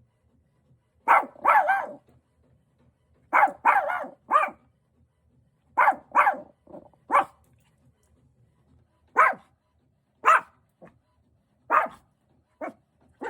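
Pet dog giving short, wary barks in clusters of two or three with pauses between, about a dozen in all: an unusual bark that the owner has not heard before, between tension and alertness.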